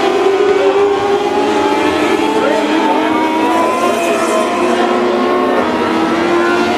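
Several mini sprint race car engines running at once, their pitches rising and falling as the cars go around the track.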